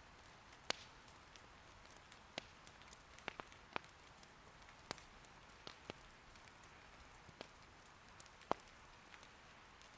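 Faint, steady rain hiss with irregular sharp pops of wood crackling in an irori fire, about a dozen snaps, the loudest near the start and near the end.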